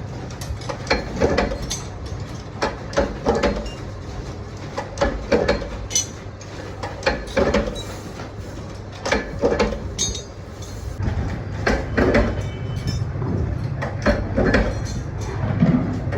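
Irregular knocks and clinks, one every half second to a second, over a steady low hum.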